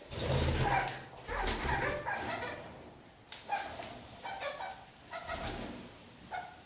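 Red-crowned parakeets (kakariki) chattering in quick runs of short, broken calls, with a few dull low thumps in the first couple of seconds.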